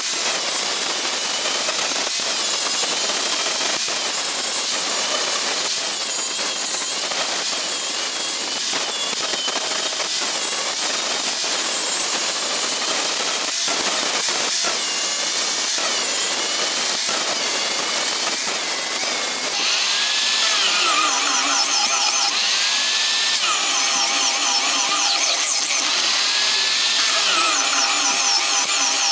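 A handheld power tool running continuously under load while working material; about twenty seconds in, the sound changes, with repeating rising and falling squealing tones.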